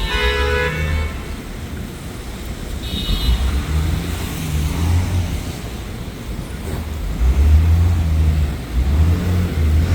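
City street traffic with vehicle engines rumbling loudly. A car horn is sounding at the start and stops about a second in, and a short high beep comes about three seconds in.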